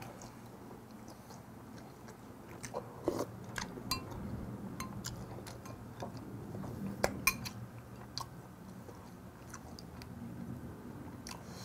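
A person chewing a mouthful of food, with light clicks of a metal spoon against a ceramic bowl now and then.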